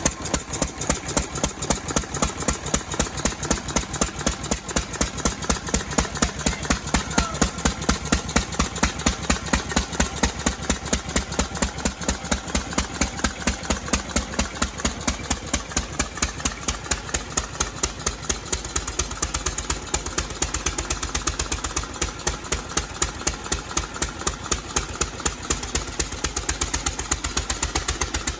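Cushman Bean Special Cub hit-and-miss engine running, a steady rapid series of sharp firing strokes. The strokes get somewhat lighter in the last third.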